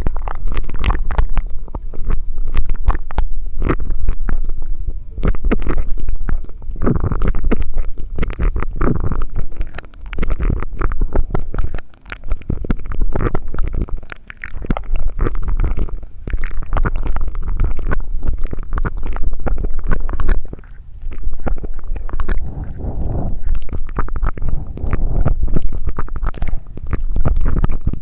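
Close-miked ASMR mouth sounds: wet sucking, smacking and crackling with many quick clicks over a steady low rumble.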